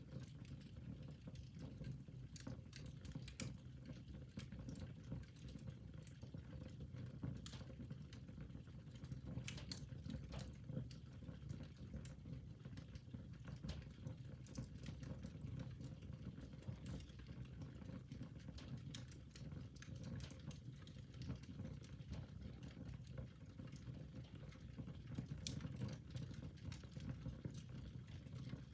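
Wood fire burning in a fireplace: irregular crackles and sharp pops over a steady low rush of the flames.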